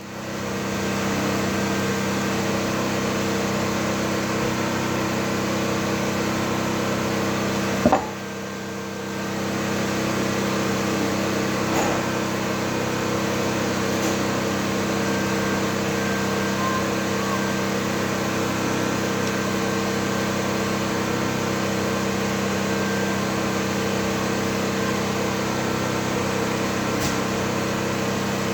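An engine running steadily at idle with an even hum. A click and a short dip in level come about eight seconds in, then the hum returns.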